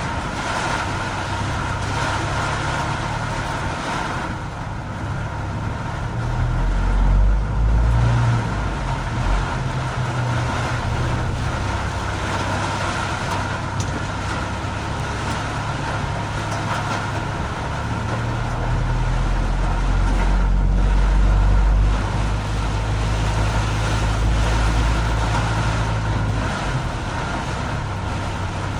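Road vehicle driving on a rain-soaked road in heavy rain: a steady hiss of rain and tyre spray over a low engine and road rumble, which swells twice, about seven seconds in and again around twenty seconds in.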